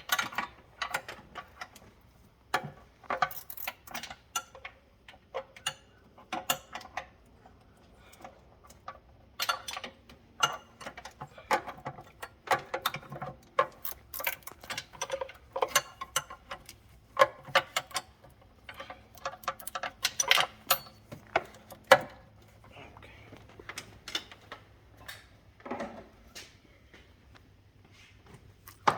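Irregular metallic clicks, clinks and rattles of hand tools and metal engine parts being handled during engine work, over a faint low hum.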